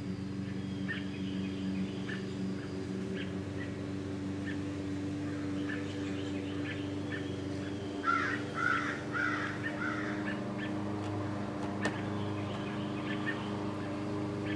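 Birds calling: short chirps scattered throughout, and a loud run of harsh, crow-like calls about eight seconds in. A steady low hum runs underneath.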